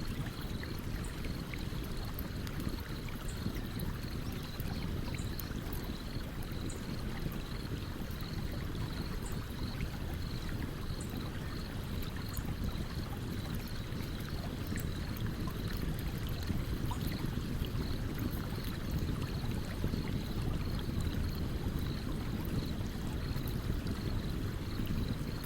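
Steady rushing of a stream's flowing water, with a campfire crackling lightly over it in scattered small, sharp pops.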